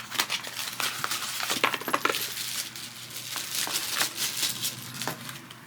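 Packaging being handled and opened: a dense run of light clicks and crinkles as an item is pulled out.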